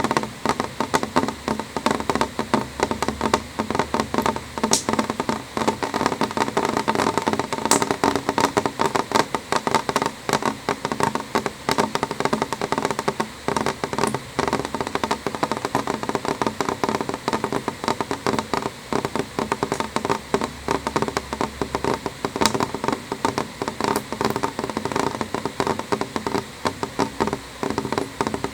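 Rain falling on a window: a dense, steady stream of drops tapping the glass, with an occasional sharper, louder tick.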